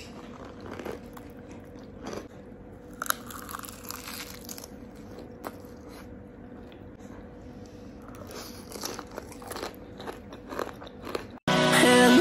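Close-up eating sounds of crispy fried chicken coated in thick gulai curry sauce: irregular crunching bites and chewing, with wet sucking as sauce is licked off the fingers. Music cuts in abruptly near the end.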